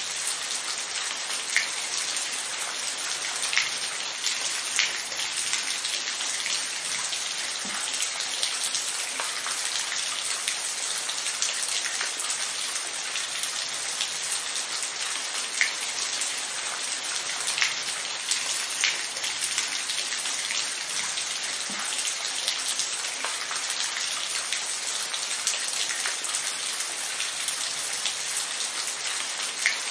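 Steady rain falling, a dense even patter with louder single drops landing every second or so.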